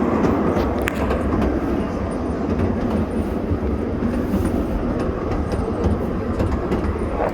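Tourist train running steadily along its track, heard from aboard a carriage: a continuous rumble with a few light clicks.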